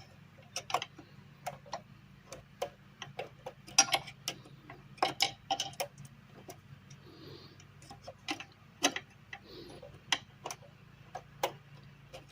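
Irregular small metallic clicks and taps of a hand tool working at a stubborn nut on a small engine's carburetor, roughly one or two a second, over a faint steady low hum.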